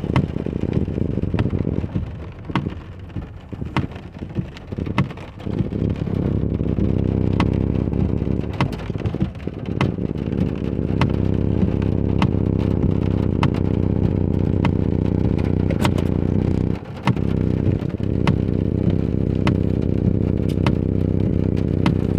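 Inside a car driving in the rain: a steady low road-and-engine rumble, with many irregular sharp taps of raindrops hitting the windshield and roof.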